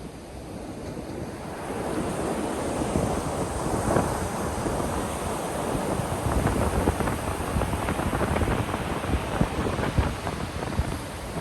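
Ocean surf: a wave breaks and washes in, swelling about two seconds in and holding as a steady rushing wash, with wind rumbling on the microphone.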